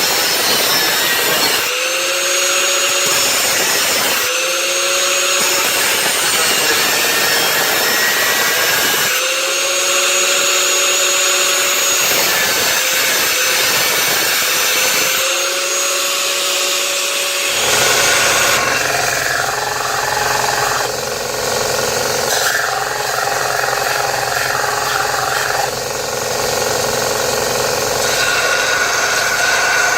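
Electric power tool cutting through the hardened steel of an old circular saw blade. The motor whines loud and high, stopping and starting several times with the pitch rising each time it comes back up to speed. About seventeen seconds in, the sound changes to a lower hum under a rougher, more uneven cutting noise.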